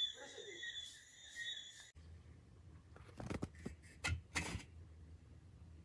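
A faint steady high whine that cuts off abruptly about two seconds in, then a low hum with a handful of sharp clicks and knocks in the second half.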